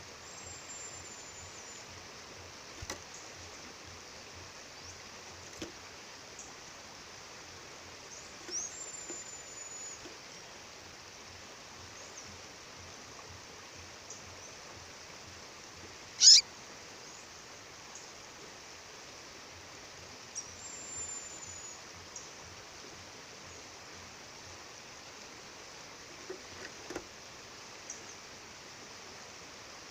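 Steady rush of a waterfall, with a female bird calling over it: a few thin high whistles, and one loud sharp call about halfway through that drops in pitch.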